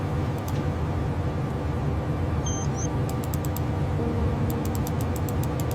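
Steady low mechanical rumble with a constant hum, broken by runs of rapid sharp clicking at about eight clicks a second, typical of heavy salvage machinery at work.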